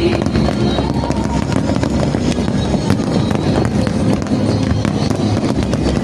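Fireworks banging and crackling in quick, irregular succession over music played loud through a display's sound system.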